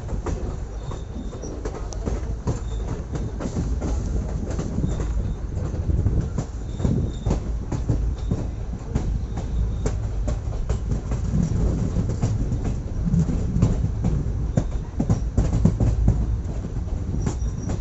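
Passenger train coach running at speed on the track: a steady low rumble of wheels on rails with frequent sharp clicks over the rail joints.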